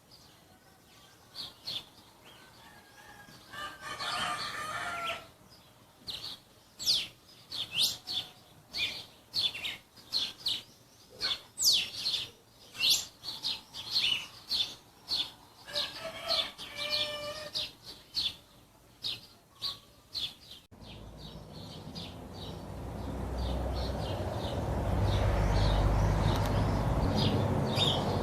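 Songbirds chirping in quick, repeated short notes, with a rooster crowing twice in the background. After about twenty seconds this gives way to a rushing noise that swells to become the loudest sound.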